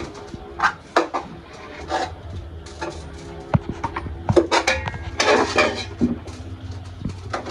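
Dishes and cutlery clinking and clattering in a string of irregular sharp knocks as food is being served.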